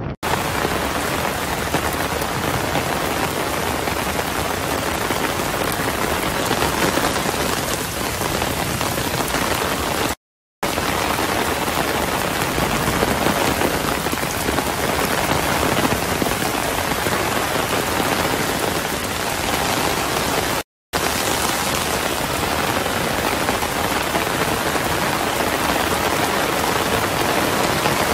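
Heavy rain pouring down, a steady dense hiss, cut off by a moment of silence twice.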